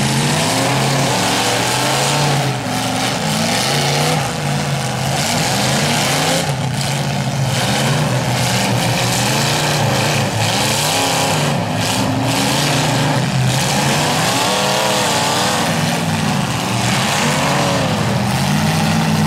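Several demolition derby cars' engines revving hard at once, their pitches rising and falling over and over as they accelerate and back off on a dirt track.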